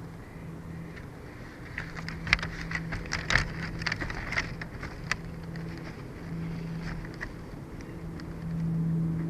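Outdoor nest-camera microphone picking up wind as a steady low hum that swells near the end, with a flurry of sharp crackling clicks about two to five seconds in.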